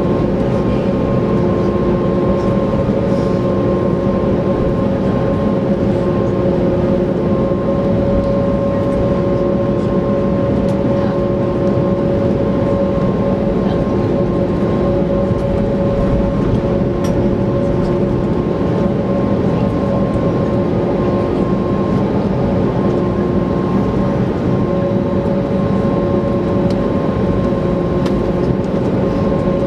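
Airbus A321neoLR heard from inside the cabin by the wing: a steady roar of engine and airflow, with several steady humming tones running through it.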